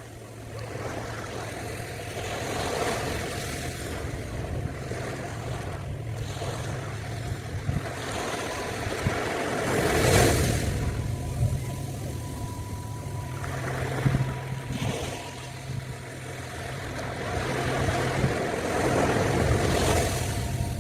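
Ocean surf breaking and washing up a beach, swelling about ten seconds in and again near the end, over a steady low hum. A faint steady tone joins about halfway through.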